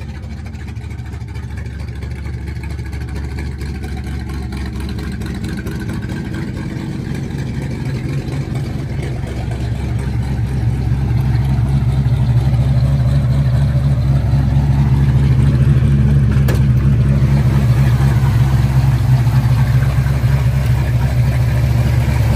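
The 1958 Plymouth Fury's fuel-injected 350 cubic-inch Golden Commando V8 idling steadily, growing louder about halfway through.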